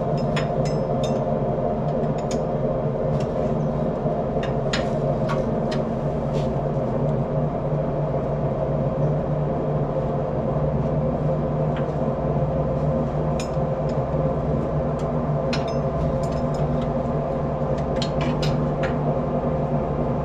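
A steady mechanical hum runs throughout, with scattered light metallic clicks and taps of hand tools as a wrench works on a battery or starter cable connection.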